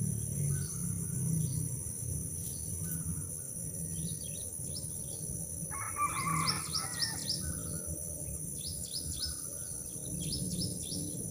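Birds chirping: many short, high, quickly falling chirps in loose runs, with a louder, fuller call about six seconds in, over a steady low rumble.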